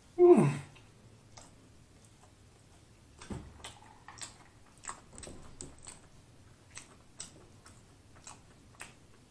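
A man's short hum of the voice falling in pitch just after the start, then scattered soft mouth clicks and smacks as he chews a fried chicken sandwich.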